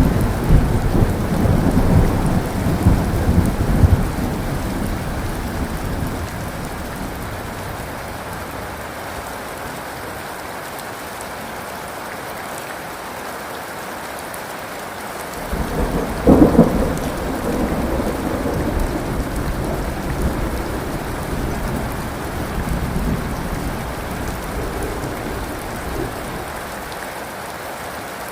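Steady heavy rain with two rolls of thunder: one rumbling loudly at the start and dying away over the first few seconds, and another cracking in sharply about halfway through, then rumbling on more softly.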